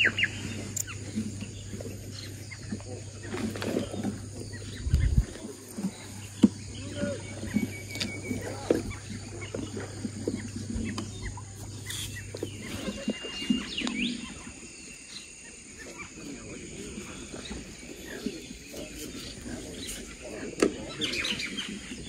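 Birds chirping in open countryside, with scattered sharp clicks and knocks. A low steady hum stops about halfway through.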